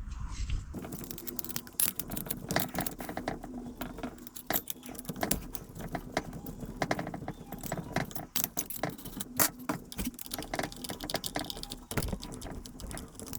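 Irregular metallic clicks and clinks of hand tools and small screws being handled and set down, as Allen screws are loosened and the engine is taken apart.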